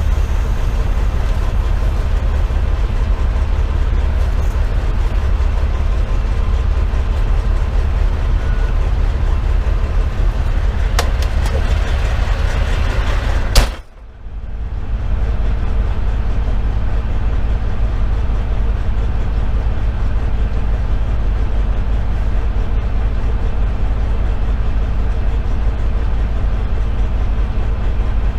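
The fire engine's Detroit Series 60 diesel runs with a steady low rumble, heard from inside the cab. About 14 seconds in there is a single sudden loud bang, and the sound drops out briefly before the rumble returns.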